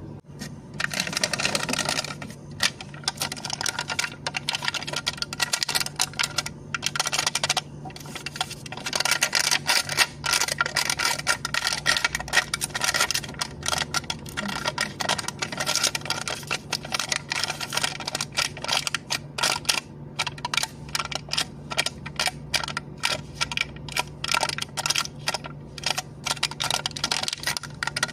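A cup lid being tapped and clicked for ASMR: quick, crisp clicks, many a second, in runs broken by short pauses.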